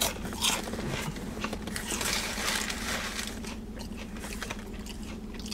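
Close-up eating sounds: a person biting and chewing a toasted sub sandwich, with crunching of the roll and some rustling, over a low steady hum.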